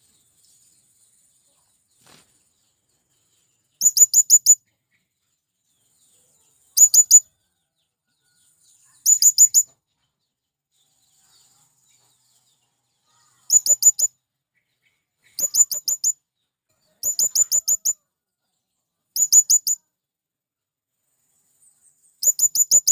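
Male blue-crowned hanging parrot (serindit) giving loud, shrill, very high-pitched calls. They come in about eight quick bursts of four to six notes each, with pauses of one to four seconds between the bursts.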